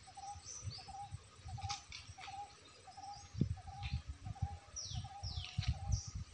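Birds calling: one repeats a short, low note about twice a second without a break, while another gives several high, down-slurred whistles in the second half. Low thumps come and go underneath.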